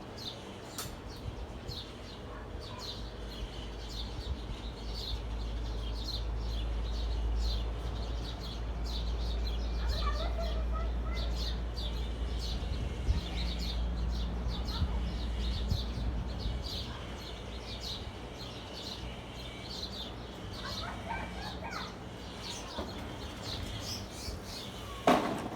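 Many small birds chirping together in a dense chorus of quick, high twitters, over a low rumble that fades out past the middle.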